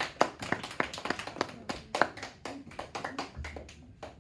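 A small group of children clapping, dying away near the end.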